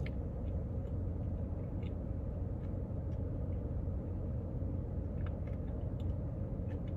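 A steady low hum with a few faint scattered clicks from a person eating a spoonful of a Blizzard.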